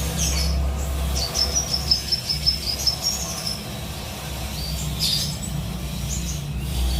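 Kapas tembak bulbul chirping: a quick run of short, repeated high notes in the middle, with single calls before and after it.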